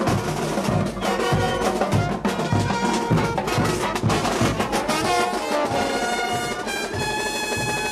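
Brass band playing: trumpets and trombones holding notes over a steady bass-drum beat, about two beats a second.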